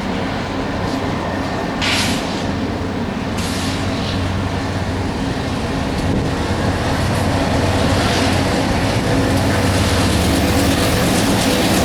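Diesel locomotives of a BNSF freight train running, a steady low engine drone that slowly grows louder. A brief hiss comes about two seconds in, and a fainter one a second and a half later.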